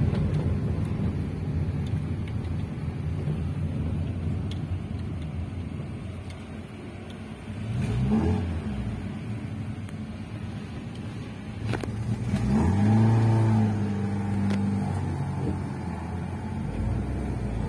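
Car engine and road noise heard from inside a moving car's cabin. The engine revs up briefly about eight seconds in. After a sharp click, it revs up again and holds a steady pitch for a couple of seconds under acceleration.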